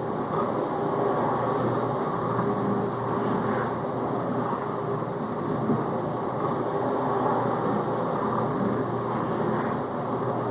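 Whirlpool dishwasher circulating water during its first rinse: the circulation pump runs steadily, spraying rinse water through the tub with an even rushing hum.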